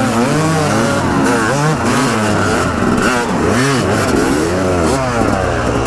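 Dirt bike engine revved hard over and over, its pitch rising and falling every second or so, as it strains to pull a load.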